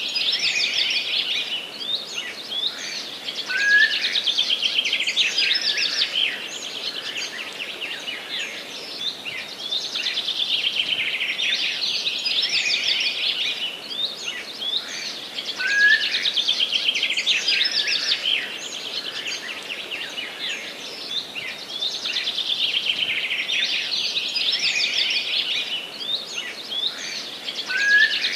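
Forest birds singing in a dense chorus of high, rapid trills and chirps. The same passage comes back about every twelve seconds.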